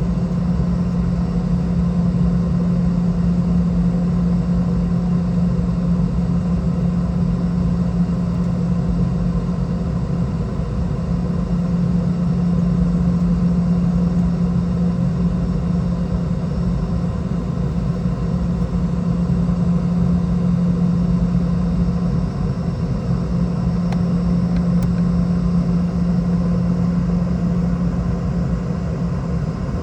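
Steady engine drone inside the cabin of a Boeing 717-200 from its rear-mounted Rolls-Royce BR715 turbofans: a constant low hum over a broad rushing noise, holding level throughout.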